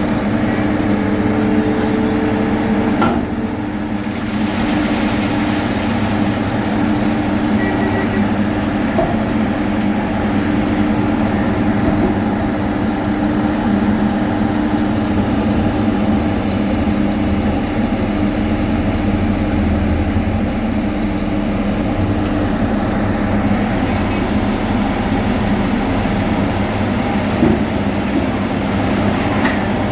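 Heavy diesel road-construction machinery running steadily at a constant engine speed, with a steady low hum. It dips briefly about three seconds in.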